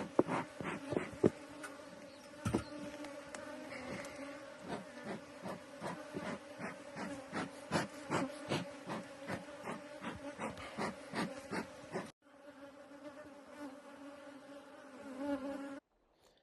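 Honeybees buzzing in a steady hum around a hive that has just been opened and smoked, with frequent short knocks over it. The buzz drops in level about twelve seconds in and cuts off near the end.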